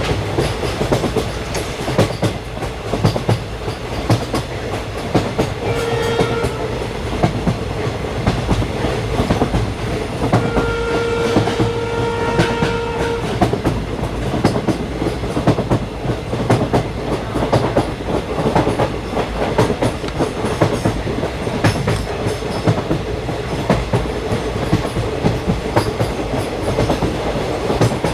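Train running along the track, its wheels clicking and clacking over the rail joints throughout. The horn sounds twice: a short blast about six seconds in, then a longer one of roughly three seconds a little before the middle.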